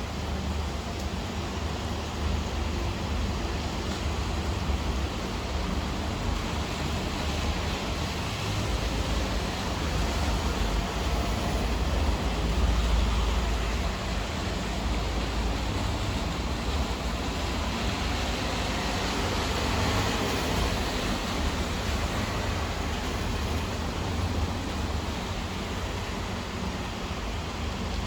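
Steady rain falling, an even hiss across the whole range, with a low rumble underneath that grows stronger about halfway through.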